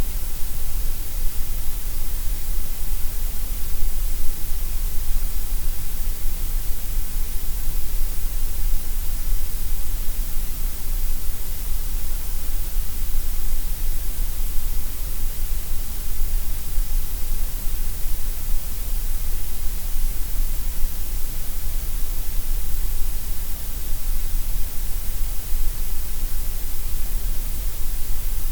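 Gray noise: a steady, unchanging hiss spread across all pitches, with a strong deep rumble underneath and a bright hiss on top.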